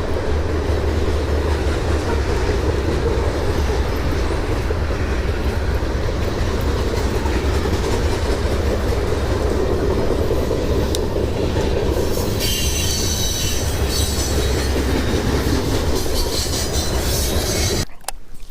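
Strong wind buffeting the microphone: a loud, steady, unpitched rumble that cuts off abruptly near the end.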